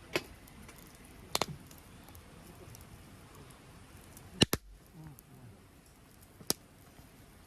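A few isolated sharp clicks and knocks over a quiet background, the loudest a quick double knock about four and a half seconds in.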